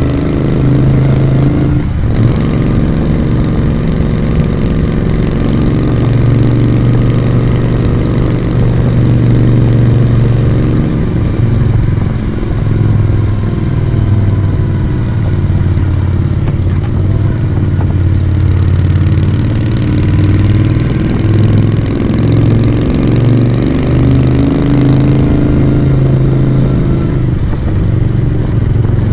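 Moto Guzzi V35 V-twin engine and exhaust running under way, its pitch falling and rising several times as the throttle is eased and opened on a winding road. A brief knock about two seconds in.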